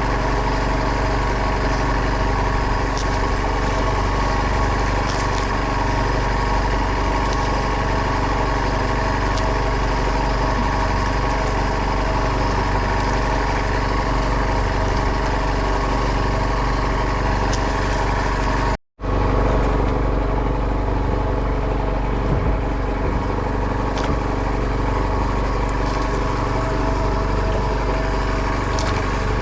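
A boat's engine runs steadily, a constant drone with several even tones. The sound cuts out for an instant about two-thirds of the way through, then carries on unchanged.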